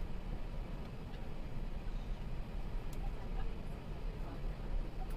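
Steady low noise of an Airbus A380's engines and airflow, heard inside the upper-deck cabin, with a faint click about three seconds in.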